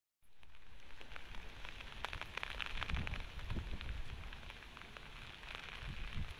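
Rain falling, with many small drop ticks on wet paving, cutting in suddenly at the start. Low gusts of wind rumble on the microphone about three seconds in and again near the end.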